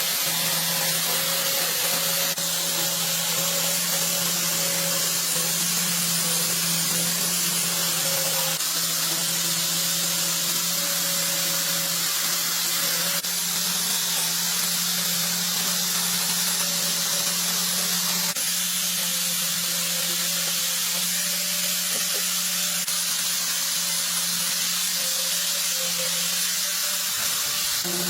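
A power tool running steadily: a continuous high hiss over a low, even hum.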